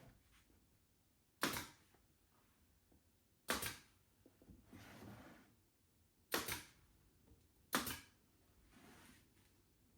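Four sharp clicks or knocks, irregularly spaced one to three seconds apart, with softer scraping or rustling in between.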